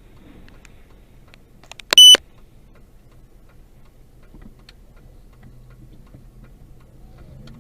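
One short, loud electronic beep about two seconds in, over a steady low in-car hum and faint ticking.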